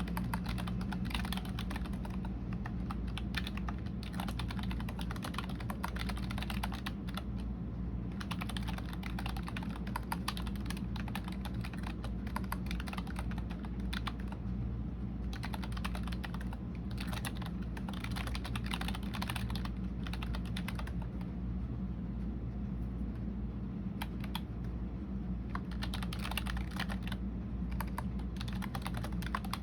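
Typing on a computer keyboard: runs of quick key clicks that thin out for a second or two now and then, over a steady low hum.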